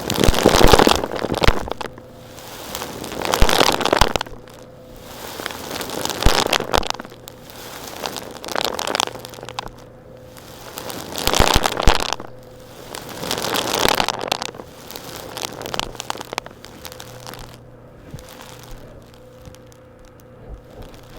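Small rocks being worked, gritty crunching and scraping with sharp clicks, swelling and easing about every two to three seconds over a faint steady hum.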